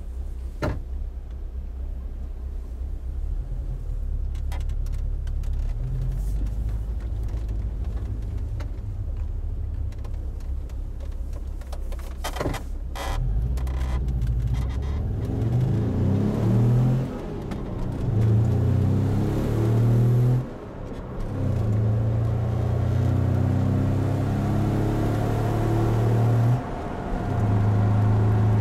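1984 Volkswagen Vanagon's 2276 cc dual-carburettor flat-four running low for about the first thirteen seconds, then accelerating hard, revving up through the gears with three brief drops in sound at the gear shifts. Sharp clicks come near the start and about twelve seconds in.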